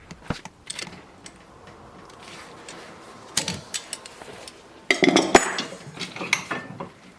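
Small sterling silver pieces and metal tools clinking and tapping on a jeweller's bench, as jump rings are made. There are scattered single clicks, and a louder run of ringing metallic clinks about five seconds in.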